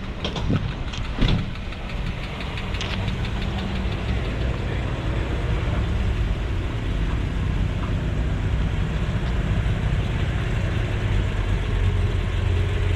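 A car engine running at idle with a steady low rumble that grows louder toward the end, with two sharp clicks about half a second and a second in.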